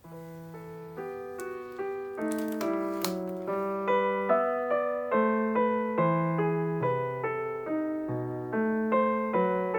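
Background music: a slow, sad minuet played on piano, one note after another at a steady pace, fading in at the start. A few faint clicks sound over it in the first few seconds.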